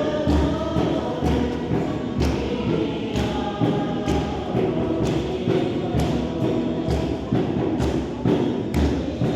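A choir singing a worship song over a steady drum beat, about one beat a second.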